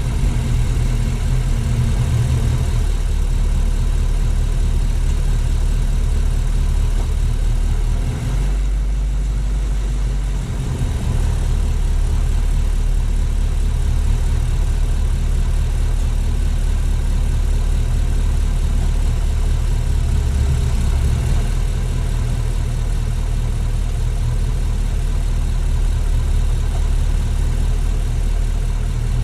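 Steady low rumble of a car being driven, engine and road noise heard through a low-mounted action camera, with a brief shift in the rumble about nine seconds in.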